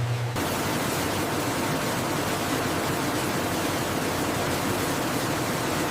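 Steady, even rushing noise of food-processing machinery, with no distinct rhythm or tone. It cuts in abruptly just after the start.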